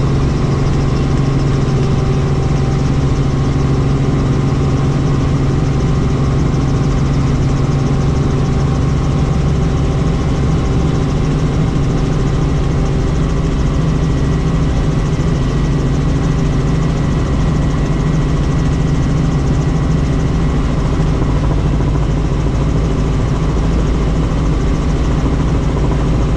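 Helicopter turbine engine and rotors running steadily and loud, a low drone with a faint high whine held on top.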